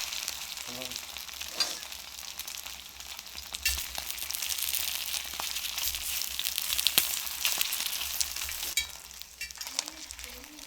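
Food frying in oil on a cast-iron cauldron-lid griddle (sotttukkeong): a steady sizzle full of small spitting pops. It grows louder about a third of the way in and eases off near the end.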